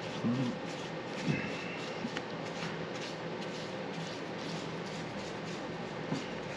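Paintbrush strokes spreading thick paint over an engine: a soft, repeated swishing.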